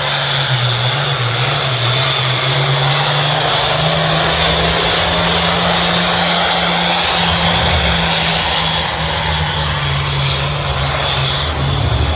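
Turbocharged pulling tractor's engine running flat out under load during a pull, limited to 466 cubic inches and running 2.8 on the turbo. It gives a loud, steady low drone under a strong high hiss and whine, wavering slightly in pitch later on.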